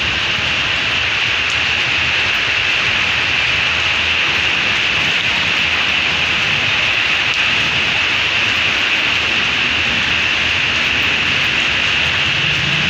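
Heavy rain of a summer storm pouring down steadily, an even, unbroken hiss.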